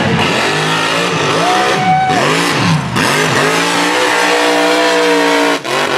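Mega truck engine revving hard, its pitch swinging up and down, then held at high revs, with a brief drop in revs near the end.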